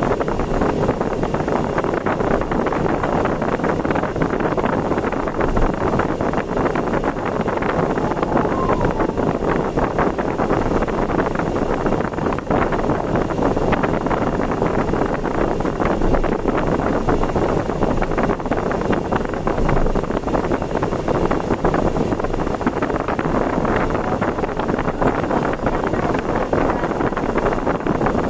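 A vehicle driving at speed on an expressway: steady road and wind noise, with no sudden events.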